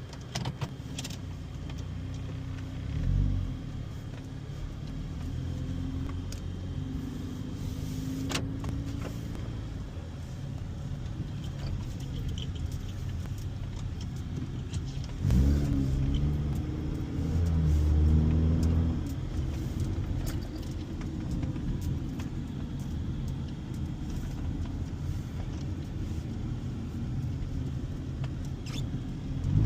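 Honda car's engine running while driving, steady for long stretches, with the revs rising under acceleration about halfway through and again at the very end.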